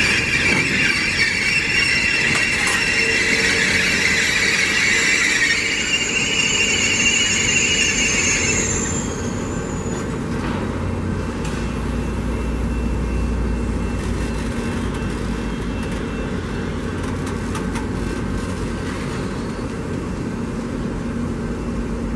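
Train wheels squealing against the rails, a loud high-pitched squeal that stops about nine seconds in. After it, the passing train rolls on with a steady low rumble that swells briefly and then eases.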